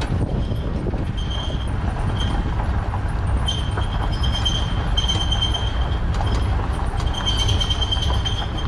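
Steady low rumble of a vehicle and trailer on the move, with a thin high-pitched squeal that keeps coming and going, each lasting up to about a second.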